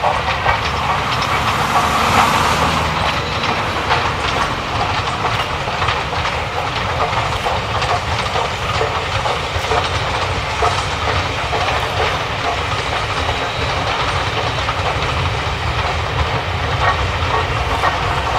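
Steam train running along the line, its wheels clicking over the rail joints, with a burst of steam hiss a couple of seconds in.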